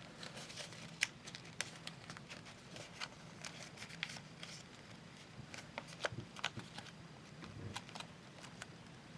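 A sheet of paper being folded and creased by hand: faint, irregular crinkles and taps.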